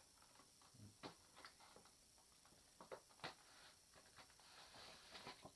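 Near silence with a few faint scattered clicks and taps of handling, and a soft rustle near the end.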